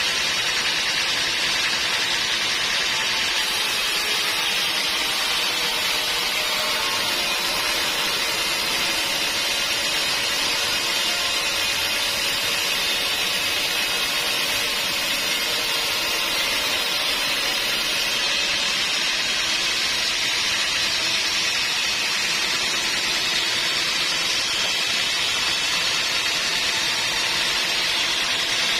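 Sawmill saw running steadily through wood: a continuous, even noise with no breaks or change in level.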